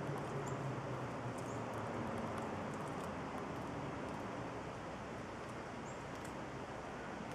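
Steady outdoor background noise with a low rumble, a few faint high bird chirps and scattered small clicks.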